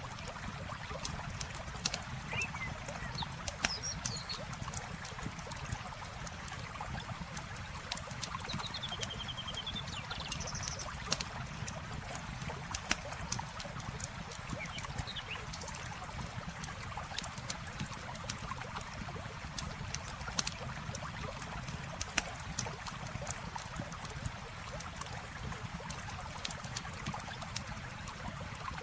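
Campfire crackling with frequent sharp pops over the steady flow of a river, with a few short bird chirps in the first half.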